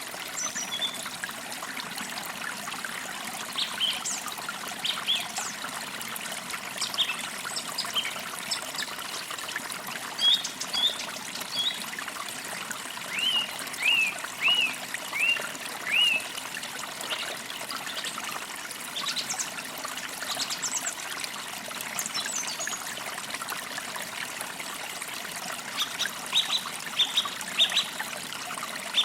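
A forest creek trickling and babbling steadily, with songbirds chirping over it in short series of notes, a run of repeated hooked notes near the middle and a livelier burst near the end.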